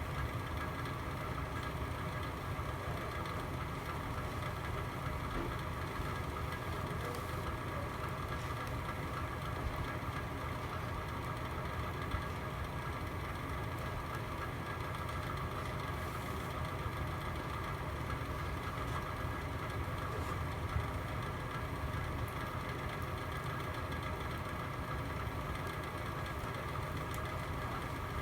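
Fire burning in a fireplace: a steady low rumble with a few faint crackles.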